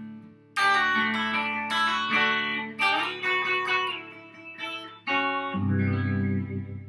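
Solo guitar playing the closing chords of a song: a chord struck about half a second in, then further chords every second or two, each left to ring, with a deep bass note added near the end.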